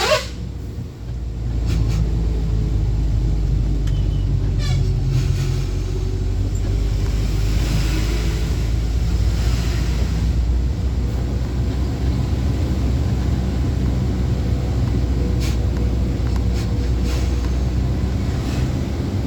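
Truck engine running steadily on the move, with a low road rumble; it dips briefly about a second in, then holds steady.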